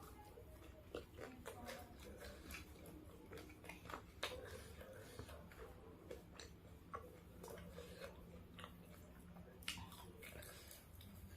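Quiet, irregular chewing and biting of fried chicken: wet mouth clicks and small crunches, with two sharper bites about four and ten seconds in.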